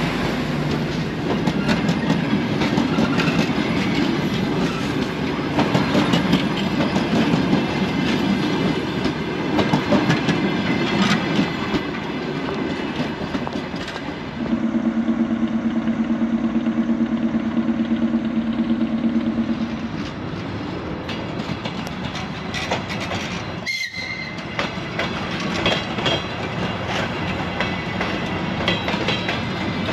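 A passing electric multiple-unit train, its wheels clattering over the rail joints. This gives way to a held two-tone train horn lasting about five seconds. After that comes the lower rumble of a DR1A diesel multiple unit running past.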